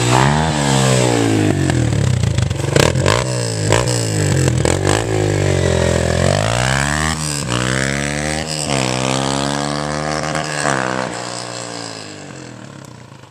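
Vehicle engine revved up and down several times, with sharp cracks mixed in. It dies away over the last couple of seconds.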